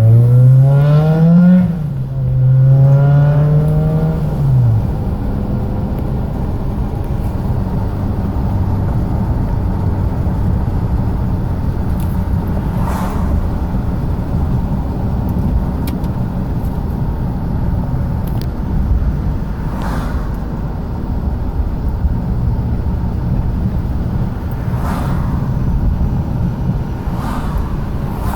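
Honda Civic with a loud exhaust accelerating hard. Its engine note rises, drops at an upshift about a second and a half in, climbs again through the next gear and is gone by about five seconds. After that comes a steady traffic rumble, with a few other vehicles passing.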